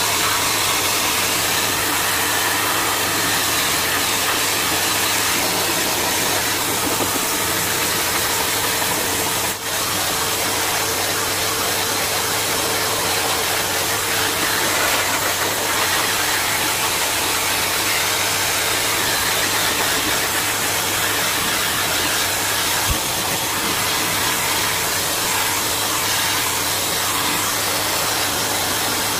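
A blow dryer running steadily, a constant rush of air with a faint steady hum, briefly dipping once about ten seconds in; it is plausibly drying the dog's coat after its bath.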